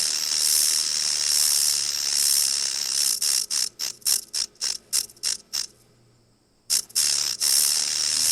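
An insect's loud, high-pitched buzzing trill. About three seconds in it breaks into a run of short pulses, roughly four a second, stops for about a second, then resumes as a steady buzz.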